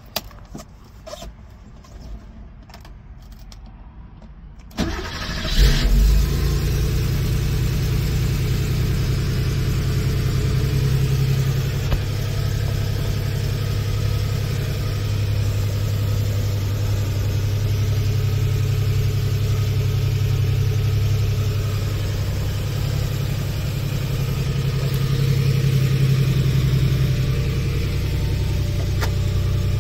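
1987 Porsche 911 Cabriolet's air-cooled flat-six being started: a few light clicks, then it cranks and catches about five seconds in, flares briefly, and settles into a steady idle.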